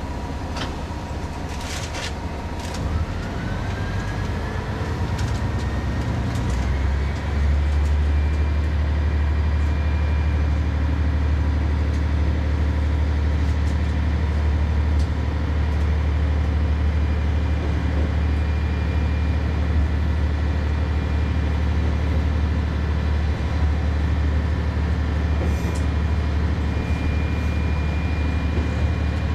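Tarumi Railway Hi-Mo 230 diesel railcar running, with a few sharp clicks at first, then a whine rising in pitch over several seconds as it pulls. It then settles into a steady low drone.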